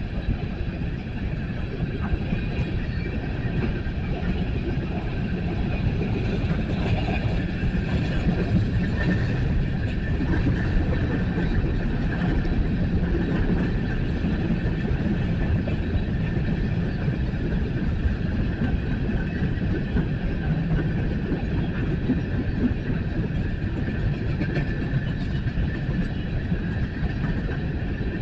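A coal train's cars rolling past on the track: a steady rumble of wheels on rail that holds the same level throughout.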